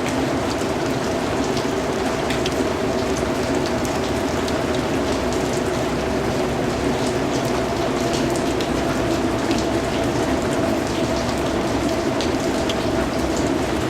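Steady rainfall: an even hiss of rain with many separate drops ticking sharply against a surface throughout.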